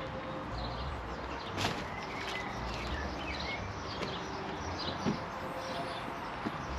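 Several small birds chirping, many short high chirps overlapping one another, over a steady background hiss.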